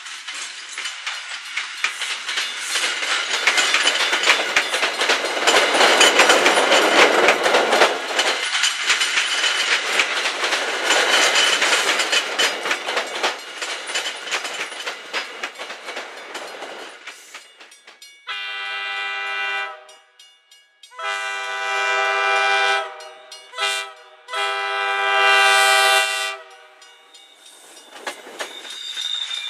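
MBTA commuter rail coaches rolling past close by, their wheels clacking over the rail joints for about sixteen seconds before fading away. Then an MBTA commuter train's horn sounds the grade-crossing signal: long, long, short, long.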